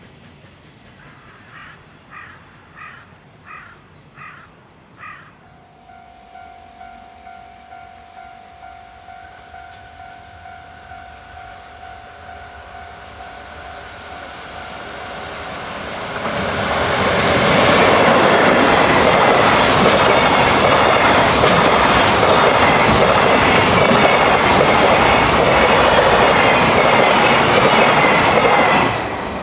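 Crows cawing several times in the first few seconds, then a level-crossing warning bell ringing steadily. From about halfway in, a container freight train hauled by an electric locomotive passes close by with a loud steady rumble and wheel clatter, cut off just before the end.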